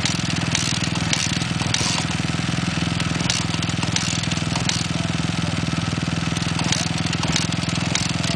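Dirt bike engine idling steadily, without revving, with short bursts of hiss over it now and then.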